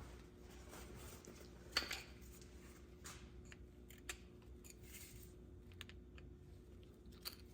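Faint scattered clicks and light metal taps from a new brake pad and its wear-indicator clip being handled and seated in a brake caliper, with one sharper click about two seconds in.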